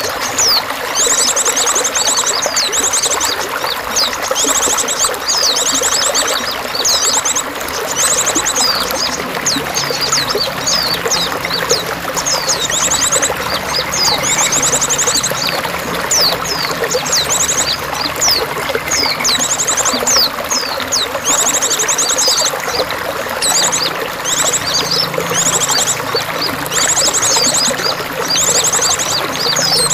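Water trickling and pouring steadily, with small songbirds chirping and giving quick high trills over it.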